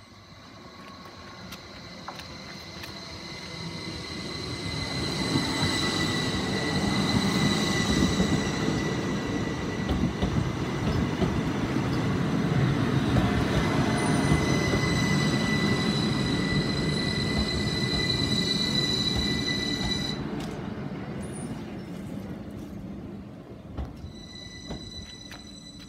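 Northern Class 333 electric multiple unit approaching and passing over a level crossing: the rumble of wheels on rail builds over the first few seconds, stays loud while the carriages go by, then fades. A steady high-pitched tone sounds over it and stops about 20 seconds in, and a different high tone starts near the end.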